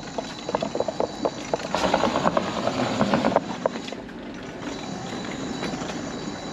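Mobility scooter wheels rolling over wooden boardwalk planks: a run of irregular clacks and knocks for about four seconds, then a steadier rolling rumble.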